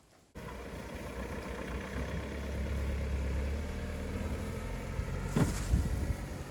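Pickup truck engine starting up abruptly and running steadily, with a sharp knock about five seconds in.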